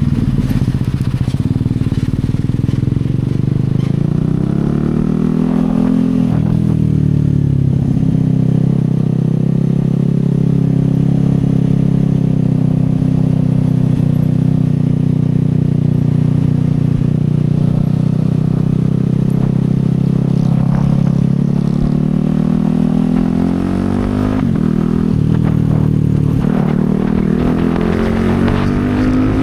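CFMoto 250SR single-cylinder engine heard from the rider's seat while riding. It pulls up in pitch at first, drops and climbs again around a gear change, runs at a steady cruise for a long stretch, then falls and picks up again several times near the end.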